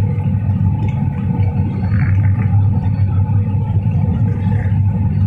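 Steady low rumble with a faint, even hum: a Trenitalia train standing at the platform, its onboard equipment running.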